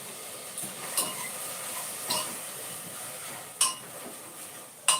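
Metal kitchen utensils clinking against pots and pans during cooking: about five sharp, ringing clinks, the loudest two in the last second and a half, over a steady faint hiss.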